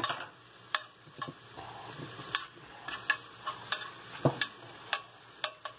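Sliced morel mushrooms sizzling in melted butter in a cast-iron skillet while being stirred, the utensil clicking and tapping against the pan about a dozen times at irregular intervals.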